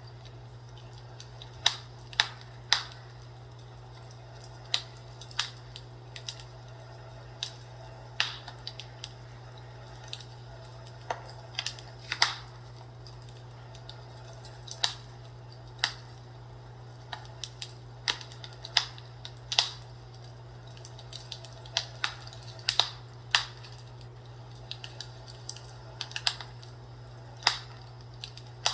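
Fireplace fire crackling, with irregular sharp pops, sometimes several in quick succession, over a steady low hum.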